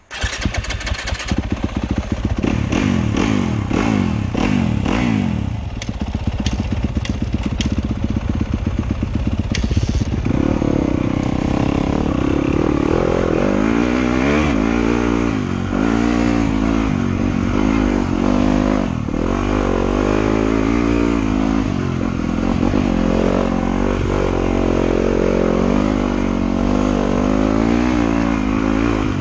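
Trail motorcycle engine being ridden hard, its pitch rising and falling over and over as the throttle is worked and gears change. The sound starts abruptly. A handful of sharp clicks and clatter comes through the engine noise around the first ten seconds.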